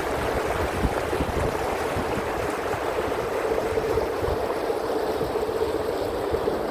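Tour boat under way on a canal: a steady motor hum over rushing water, with wind buffeting the microphone.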